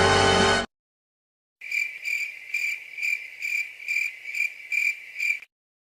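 Music cuts off within the first second; after a short silence a cricket chirps, a steady run of short high chirps at about two to three a second: the stock crickets sound effect.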